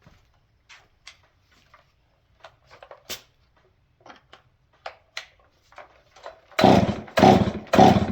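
Stihl 261 chainsaw, fitted with a handmade high-back-pressure exhaust, being pull-started. Light clicks and knocks of handling come first, then near the end a run of loud, quick starter pulls, about two a second, each turning the engine over briefly without it settling into a run.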